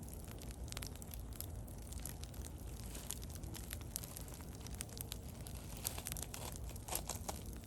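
Wood bonfire crackling: scattered sharp pops and snaps over a low steady rumble, with a cluster of louder snaps near the end.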